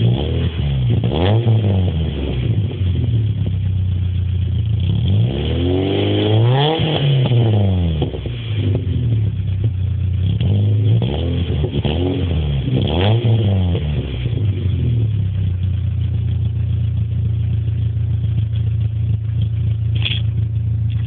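VW Golf Mk3 engine breathing through a new aftermarket exhaust, blipped in free revs: a quick rev near the start, a longer, higher rev about a third of the way in, a few quick blips past the middle, then settling to a steady idle.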